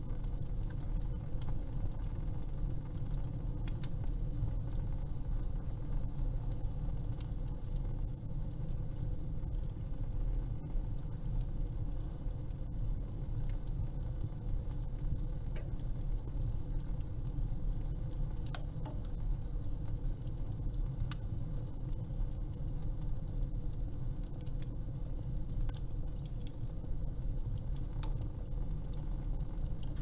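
Wood fire burning, with frequent small crackles and pops scattered over a steady low rumble.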